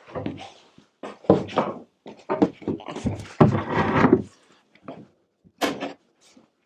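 Wooden materials and tools being handled and set down in a workshop: irregular knocks, scrapes and rattles, busiest a little past the middle, with a sharp click near the end.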